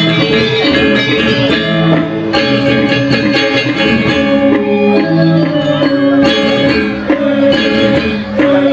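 Balinese gamelan ensemble playing a tabuh kreasi, a new instrumental composition: struck bronze metallophones ringing on sustained pitches, with notes changing in a steady rhythm.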